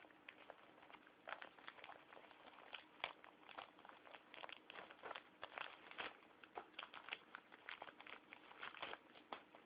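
Faint, irregular rustling and crinkling of disposable paper tissues being pulled out of their pack one after another.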